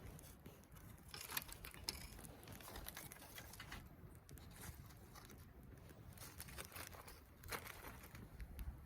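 Quiet rustling and crinkling with scattered small clicks and taps, a few sharper ones standing out.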